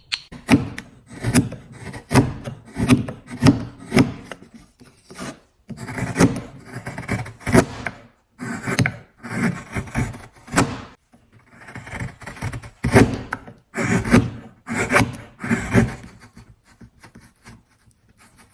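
Hand tool scraping and rasping a block of wood in repeated strokes, about two a second, with short pauses between runs of strokes and lighter strokes near the end.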